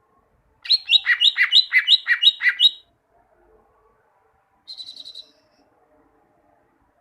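Green leafbird (cucak ijo) singing: a loud run of about seven quick repeated notes, each sliding down in pitch, over about two seconds, then after a pause a short, quieter rapid trill.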